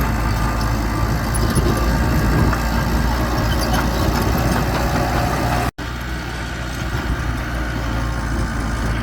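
Heavy-machinery diesel engine running steadily with a low drone, as of a bulldozer at work; the sound drops out for an instant a little past halfway, then resumes.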